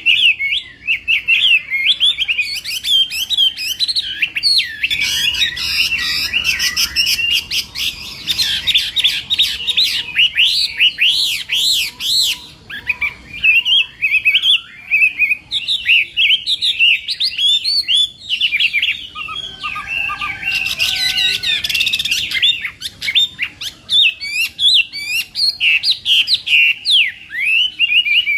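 Chinese hwamei singing a loud, continuous fighting song: fast, varied whistled phrases that sweep up and down, mixed with stretches of harsher, rasping notes, with no real pause.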